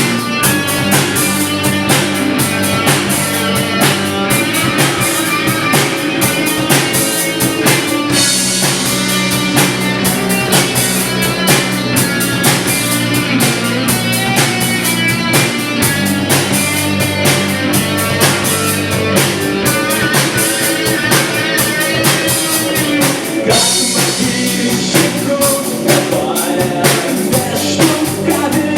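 A rock band playing live, with guitar and a drum kit keeping a steady beat; cymbal crashes swell the sound about eight seconds in and again later on.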